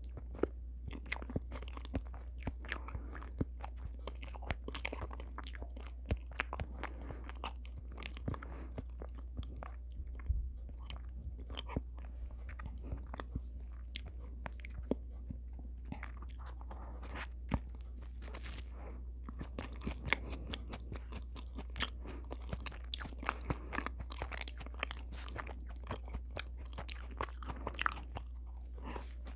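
Close-miked chewing and biting of a chocolate choux pastry, with many small irregular crackles and wet mouth clicks. A steady low hum runs underneath.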